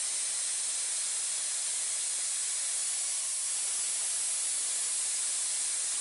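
Pneumatic air ratchet running, a steady hiss of its exhaust air as it spins off a bolt that has already been cracked loose.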